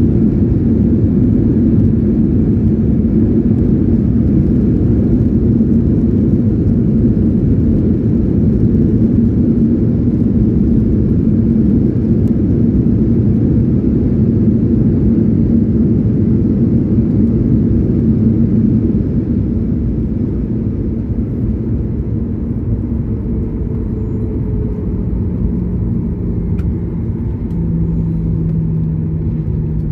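Jet airliner cabin noise on the ground just after landing: a loud, steady rumble of engines and wheels that eases off about 19 s in, then lower steady engine tones as the aircraft slows.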